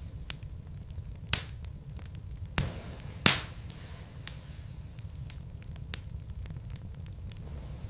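Wood logs burning in a fireplace: a steady low rumble under constant small crackles, with a few sharp pops, the loudest about three seconds in.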